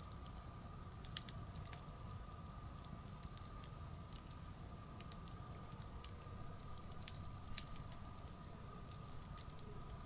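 Bonfire crackling, with scattered sharp pops every second or two over a low steady rumble of the flames.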